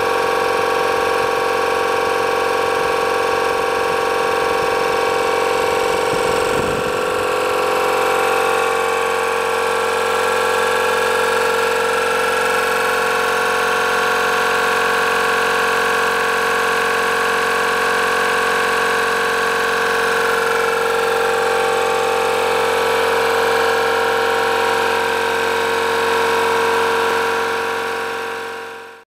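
Shamal piston air compressor running steadily: a continuous mechanical hum with a strong steady tone, fading out near the end.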